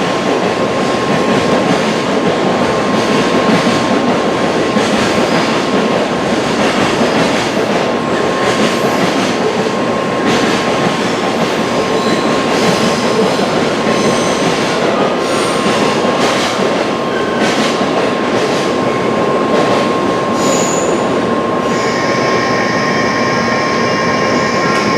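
Tokaido Shinkansen train moving alongside the platform with a loud, steady rumble and rush of wheels and running gear, and brief high wheel squeaks. A set of steady high tones comes in near the end.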